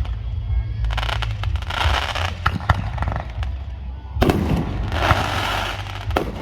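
Aerial fireworks going off: sharp bangs of shell bursts, the loudest about four seconds in, each followed by a stretch of crackling.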